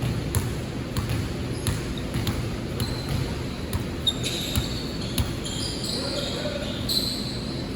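A basketball bouncing on a court during play, irregular sharp thuds, with short high shoe squeaks in the second half over a murmur of voices.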